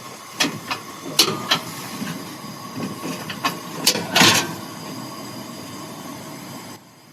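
A few sharp knocks and clinks of a cast iron griddle and cookware being handled on a Coleman camp stove, with a short hissing burst about four seconds in, over a steady low hiss.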